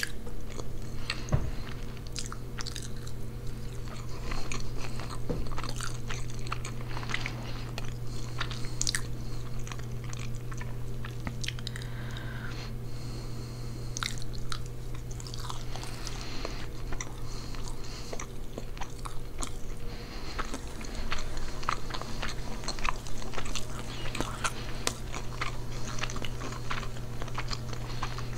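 Close-miked chewing and biting of a pernil meal with rice and beans: many wet mouth clicks and occasional crunches, over a steady low hum.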